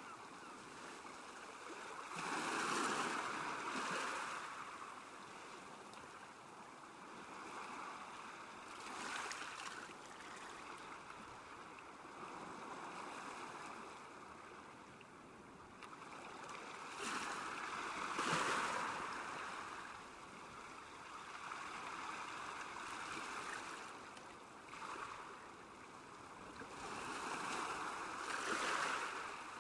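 Small waves lapping at a lakeshore, swelling and easing off every few seconds, with the strongest washes about three seconds in, midway through and near the end.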